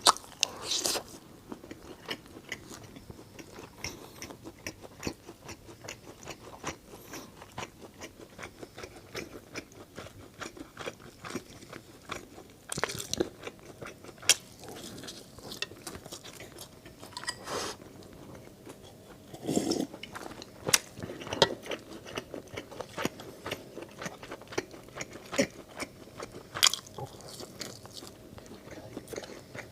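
A person chewing and biting food close to the microphone: a steady run of small wet clicks, with a handful of louder bites scattered through.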